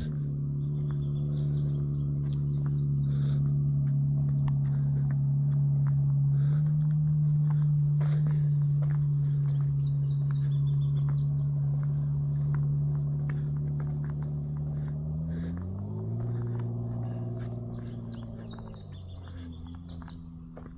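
A low, steady engine-like drone that swells and fades, stepping up in pitch about two-thirds of the way through and dropping again near the end. Birds chirp faintly now and then.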